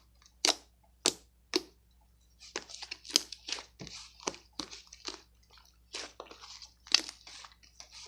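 Irregular series of sharp, close-up crunches and crackles, some in quick clusters, with short pauses between them.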